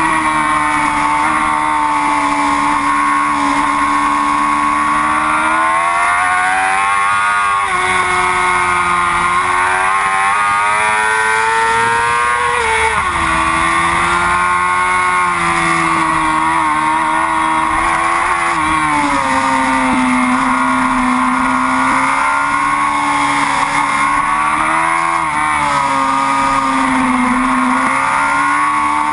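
Yamaha R6 race bike's inline-four engine running hard at high revs around the track. Its pitch climbs and falls through the gears, with sharp drops at the shifts, one about halfway through.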